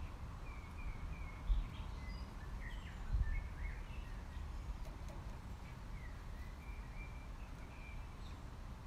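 Small birds chirping in short, scattered calls over a steady low rumble, with two low thumps about one and a half and three seconds in.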